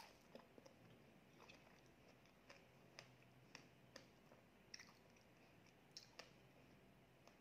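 A person chewing a mouthful of fresh strawberry, quietly, with short wet mouth clicks every half second to a second.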